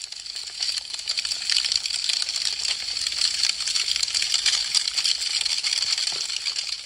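Wood fire crackling: a dense, continuous run of small sharp snaps and pops. It fades in over the first second or so and fades out again near the end.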